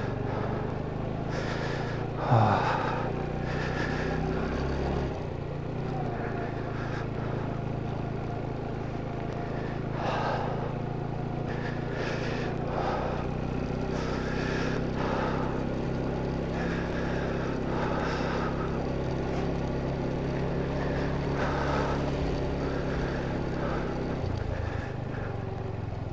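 Motorcycle engine running steadily while riding, its low note shifting about five seconds in.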